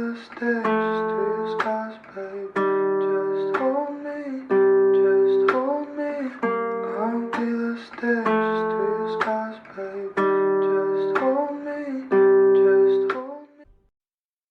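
Acoustic guitar music: strummed chords repeating in a steady rhythm, dying away near the end.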